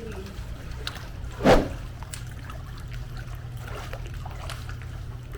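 Pool water trickling and splashing as a person moves through it, with one short, louder splash-like burst about a second and a half in.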